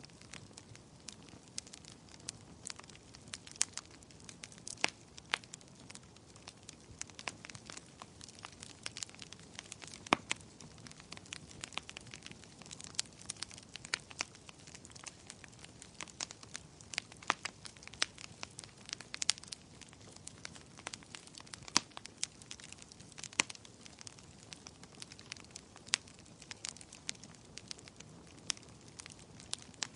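Wood fire crackling, with irregular sharp pops and snaps over a faint steady hiss.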